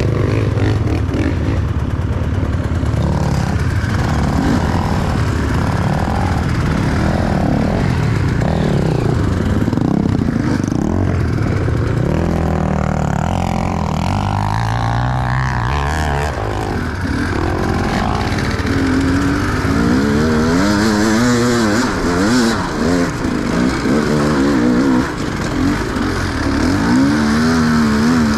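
Enduro dirt bike engine running under load and revving, its pitch swinging rapidly up and down in the later part as the throttle is worked.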